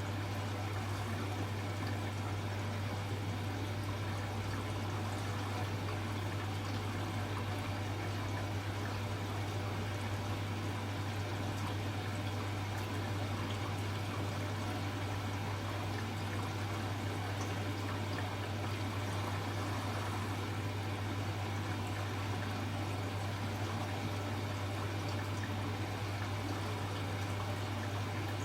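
Water running steadily through a Hoover H-Wash 300 Plus washing machine during its rinse stage, over a constant low hum from the machine.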